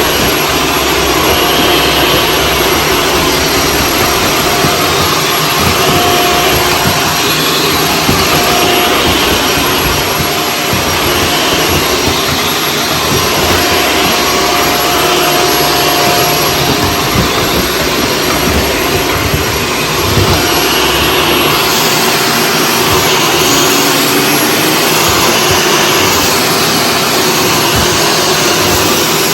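Shark Stratos vacuum cleaner running steadily, a constant loud rush of motor and suction noise with a thin whistle that comes and goes.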